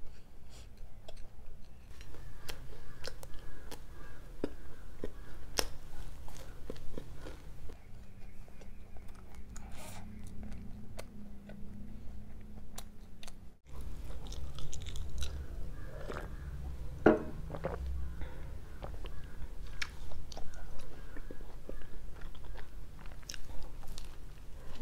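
A person chewing and biting pizza with crust up close, with many short crunches and wet mouth clicks.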